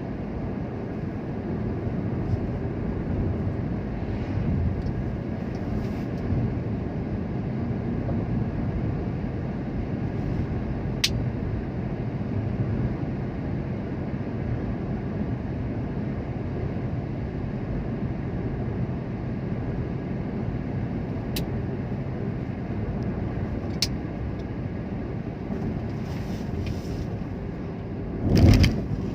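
Steady low rumble of a vehicle moving along a road, with a few sharp ticks and a louder bump near the end.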